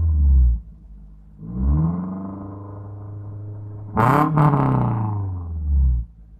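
Toyota Avanza engine breathing through an aftermarket header and full exhaust system, revved in short throttle blips. One rev falls back to idle just after the start, a slower rev rises about a second and a half in, and a sharp blip about four seconds in comes with a couple of sharp cracks, then falls away and cuts off near the end.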